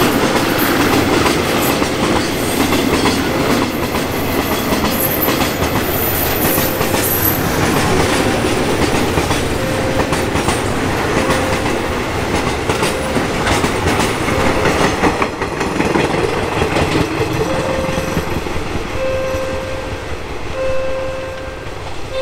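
Railway oil tank wagons of a freight train rolling past at speed, their wheels clattering steadily over the rail joints. A short beep repeating about once a second comes through more clearly in the second half as the rolling noise eases.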